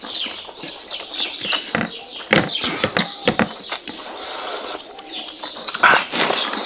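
Eating sounds of rice and fried pork eaten by hand: wet smacking and chewing in quick, irregular clicks and squelches.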